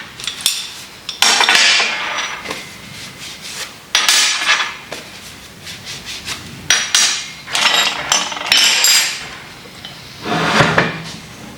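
Steel vise parts and hand tools clinking and scraping in about five short bursts as the jaws and their screws are fitted onto a Kurt milling vise.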